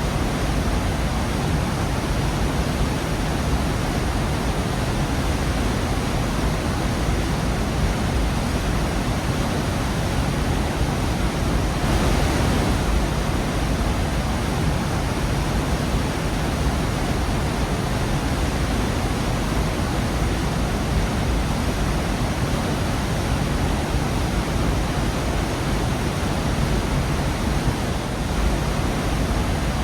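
Gorge waterfall rushing steadily: a dense, even roar of falling water, heaviest in the low end.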